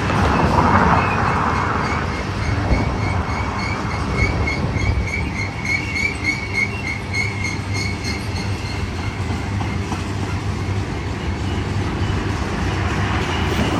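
Union Pacific manifest freight train rolling past, a steady rumble of steel wheels on rail. A high ringing squeal pulses about three times a second through most of it, fading out near the end.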